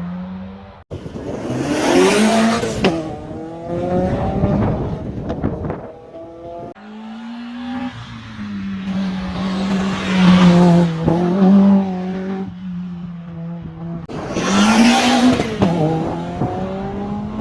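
Rally cars driven hard on a road stage, their engines revving up and falling back through gear changes as they pass close by, with loud surges a few times. The sound jumps abruptly between cars a few times.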